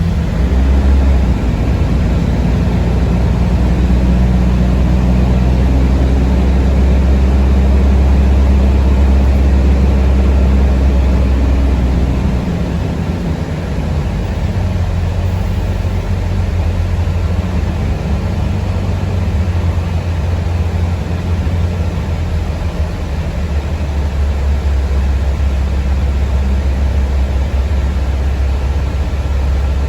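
Low rumble of a city public-transport vehicle heard from inside the passenger cabin, its drive humming steadily while under way. The hum fades and the sound drops a little about twelve seconds in.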